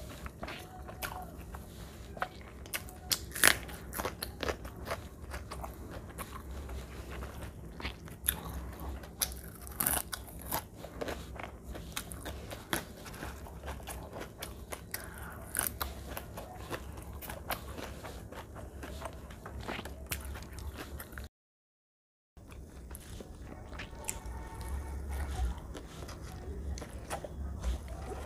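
Close-miked eating by hand: crunchy bites and chewing of crisp fried food (fried potato sticks and fried fish), with many sharp crackles. Near the end the sound cuts out to dead silence for about a second, then resumes.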